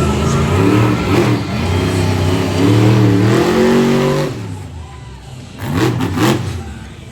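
Monster truck engine revving, its pitch rising and falling for about four seconds before dropping back, then two quick throttle blips near the end.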